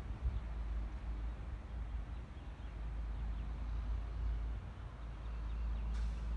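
Wind buffeting a phone microphone outdoors: a steady, uneven low rumble, with a brief click near the end.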